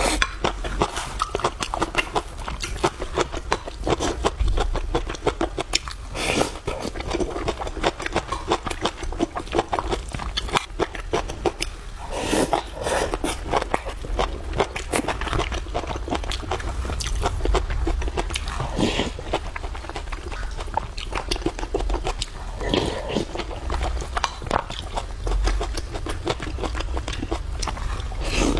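A person eating close to the microphone: chewing and biting food in a dense, continuous run of small wet clicks and smacks, with a few louder bites.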